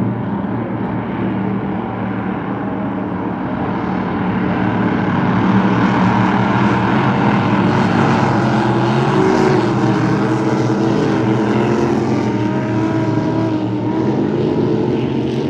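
Racing boat engines running hard, a loud steady engine noise that grows louder for a few seconds in the middle and eases off near the end.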